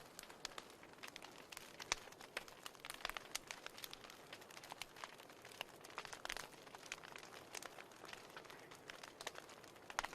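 Wood fire crackling in a fireplace: frequent irregular pops and snaps over a faint steady hiss.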